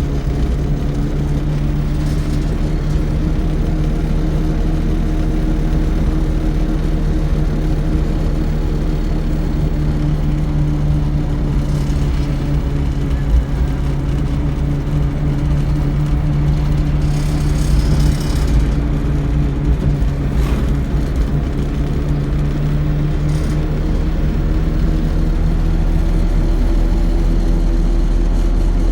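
Electric-converted pickup truck on the move: a steady low drone of the drive motor and road noise, with a brief rush of higher noise about two-thirds of the way through.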